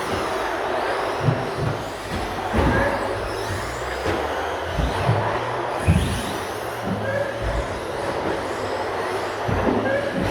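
Radio-controlled stadium trucks racing: a continuous hiss of motors and tyres with faint whines rising and falling in pitch as the trucks speed up and slow down, and irregular low thumps and rumbles on the microphone.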